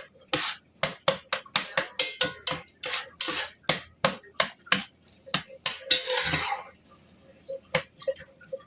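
A cooking utensil clattering against cookware in quick repeated strokes, about three to four a second, with a couple of short scrapes; the clatter thins out near the end.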